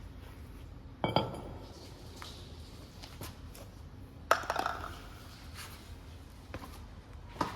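Metal objects clanking and clinking as they are handled: two sharp, ringing clanks, one about a second in and one just past four seconds, with a few lighter clicks between and after.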